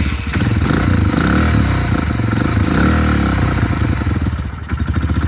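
Honda CRF125F's single-cylinder four-stroke engine running just after a cold start on half choke, its level sagging briefly near the end before it picks up again. It will not settle to an idle while cold.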